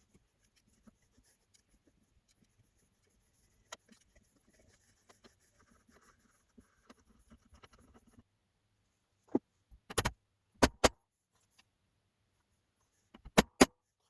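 Faint handling and rustling, then a few sharp knocks in quick clusters from about two-thirds of the way in.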